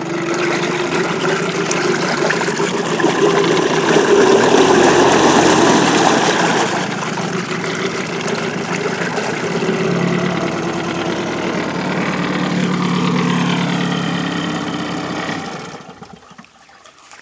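An old Mercury 6 hp two-stroke outboard motor running, louder for a few seconds early on, then back to a steady lower speed, then shut off near the end.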